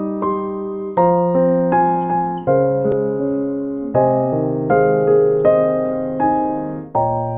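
Background music: a gentle electric piano playing chords struck about once a second, each fading before the next.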